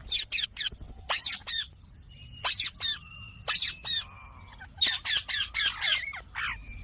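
Green pet parrot giving harsh, high calls in quick clusters of two or three, repeated about every second.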